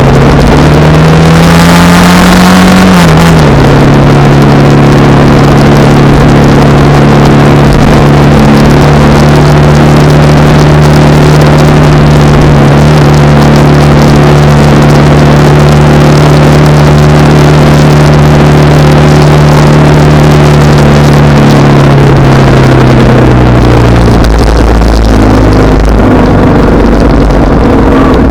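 Honda Rebel 300's single-cylinder engine under way: it revs up in gear for about three seconds, drops pitch at an upshift, then holds a steady cruising note until it eases off near the end. A low wind rumble on the microphone lies under it.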